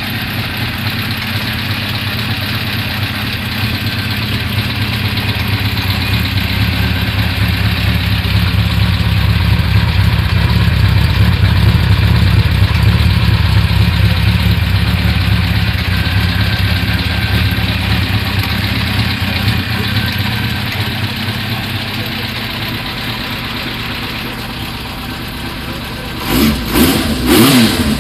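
Honda CB400F inline-four engine idling steadily and evenly on new spark plugs, with no misfire. Near the end the throttle is blipped a few times, the revs rising and falling.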